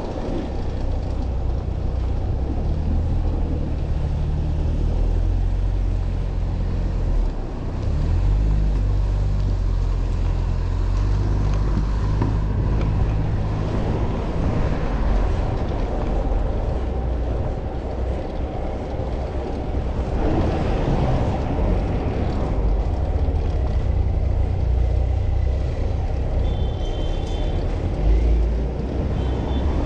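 Steady low rumble of wind on the microphone with road and traffic noise while riding a bicycle through city streets. A brief high-pitched tone comes twice near the end.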